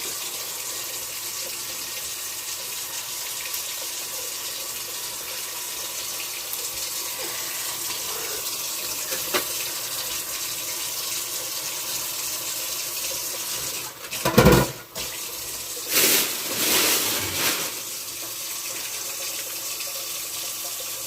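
Water running steadily from a tap into a sink as fish is washed under it. About fourteen seconds in there is a loud knock, and soon after a stretch of louder splashing.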